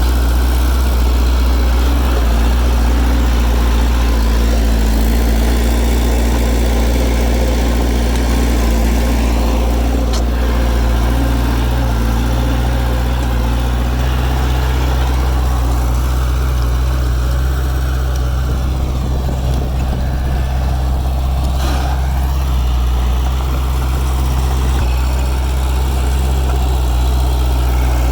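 Heavy diesel engine of earthmoving machinery running steadily at constant revs, a low even rumble.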